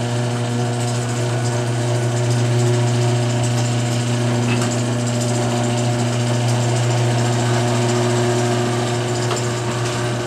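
Electric garage door opener running steadily as the door travels, with a few faint clicks. The door's hinge joints are freshly lubricated, so the door runs super quiet with little creaking.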